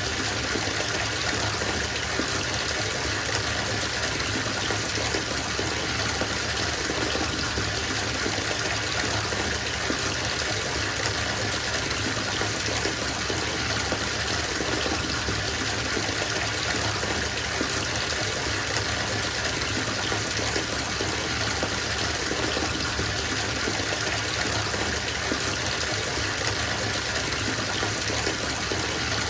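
Water running from a bathtub tap into the filling tub, a steady, unbroken gush.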